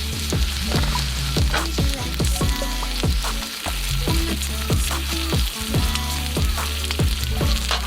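Food sizzling on a small iron griddle over a campfire, with background music underneath carrying a stepping bass line and a steady beat.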